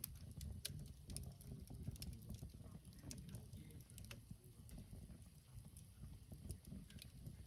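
Campfire of burning wood crackling faintly, with scattered irregular sharp pops over a low rumble.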